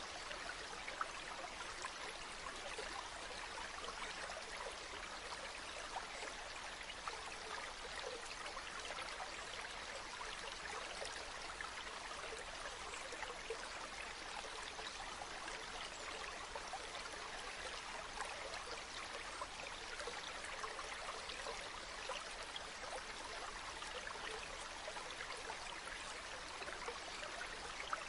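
A river or stream flowing steadily over rocks, a constant rushing and babbling with small splashes throughout.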